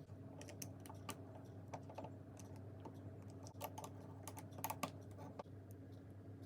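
Small plastic LEGO pieces clicking as they are handled and pressed together: irregular light clicks, with a quicker, louder run of them about four to five seconds in, over a faint steady hum.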